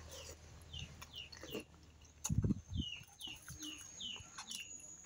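A small bird chirping over and over in short falling notes, about two or three a second, with two low thuds near the middle.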